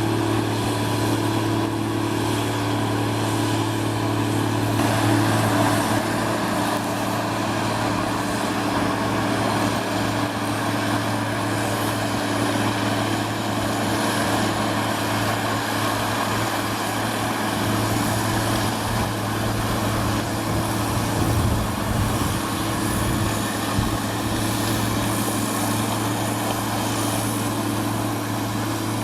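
Snow-clearing machine's engine running steadily: a constant low hum with a broad rushing noise over it.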